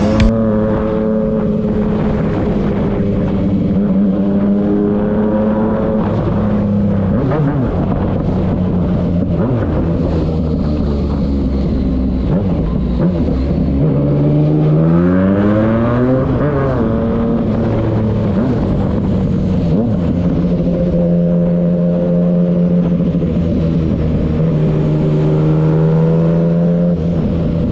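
Yamaha MT-09's three-cylinder engine running through its exhaust, its note held steady for long stretches. About halfway through there is one rev that rises and falls back.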